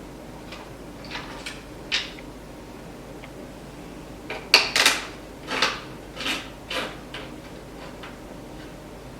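Parts of an electric unicycle being handled during disassembly: a few light clicks, then a run of about six sharp knocks and clatters about halfway through.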